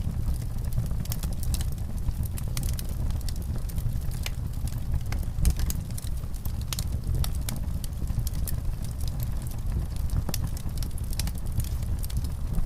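Fireplace fire crackling: many small sharp pops scattered irregularly over a steady low rumble.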